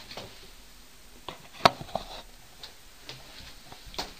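A handful of sharp, irregular knocks and clicks in a quiet room, the loudest one about a second and a half in.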